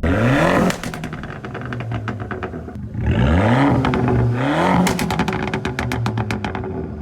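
Modified Abarth 500/595 exhaust on its 1.4-litre turbo four-cylinder. It is revved sharply right at the start, then blipped twice more about three seconds in. Each rev is followed by a rapid string of pops and crackles as the revs fall.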